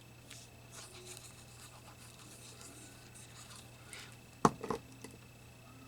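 Quiet rubbing and rustling of paper being handled on a craft table, with a sharp knock about four and a half seconds in and a couple of softer taps just after.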